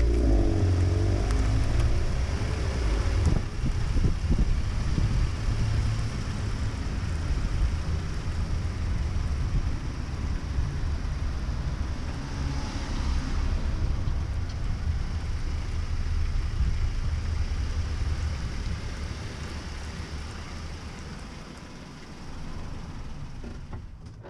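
Honda N-VAN driving in the rain, heard from inside the cabin: a steady low road and engine rumble under a hiss of rain and wet tyres, slowly fading out over the last few seconds.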